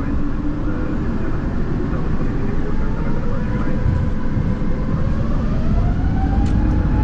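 Airbus A350-900's Rolls-Royce Trent XWB jet engines heard from the cockpit: a deep steady rumble with a whine that rises in pitch through the second half, with a few light clicks near the end.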